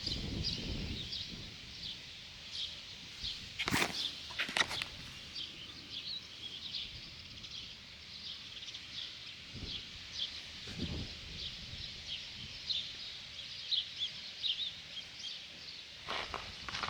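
Small birds chirping repeatedly, with a few sharp knocks about four seconds in and again near the end, and two dull thumps midway.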